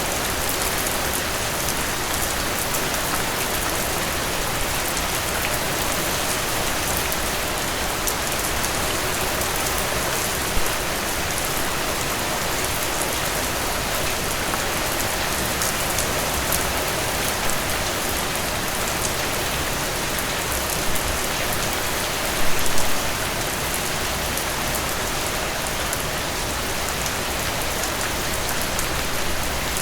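Steady rain falling on a surface, a dense even hiss with individual drops ticking through it. A brief louder patch comes about 22 seconds in.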